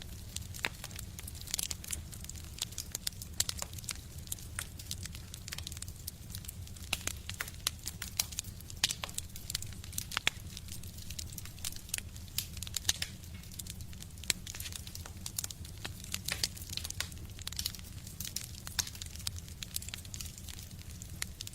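Wood fire burning in a stove, crackling with many irregular sharp pops and snaps over a steady low rumble.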